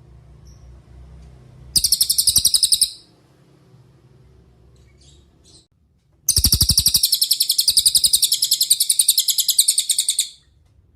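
Cililin songbird singing a rapid, rattling trill of high, evenly repeated notes in two bouts: a short one about two seconds in, and a longer one of about four seconds starting around six seconds in.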